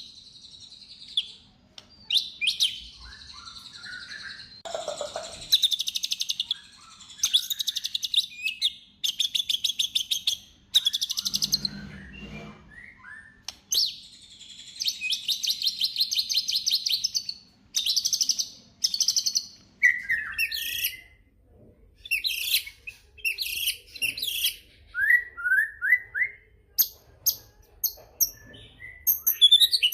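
White-rumped shama (murai batu) singing a fast, varied song: rapid rattling trills and chattering phrases of quickly repeated high notes, with a few short whistled slurs partway through.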